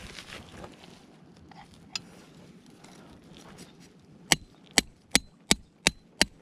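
Six sharp knocks in quick, even succession, about three a second, starting some four seconds in, after faint rustling and footsteps.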